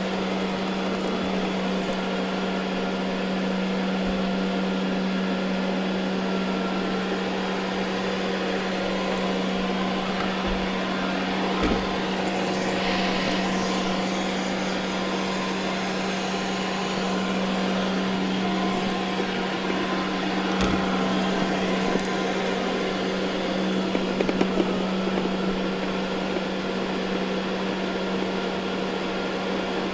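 Ecovacs Deebot N79 robot vacuum running on carpet: a steady motor hum with a constant low drone and a whir over a hiss of suction, with a few faint knocks.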